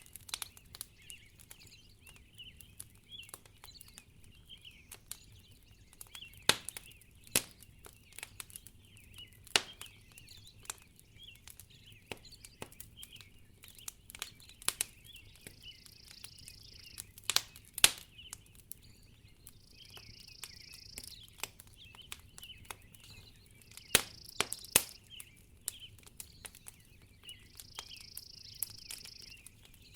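Wood fire in a fireplace crackling, with frequent sharp pops at irregular intervals over a constant high twittering. Four short hisses come in the second half.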